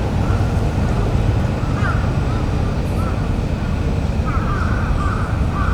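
Pachislot hall din: a loud, steady wash of slot-machine noise with short warbling electronic jingles from the machines, the longest starting about four seconds in.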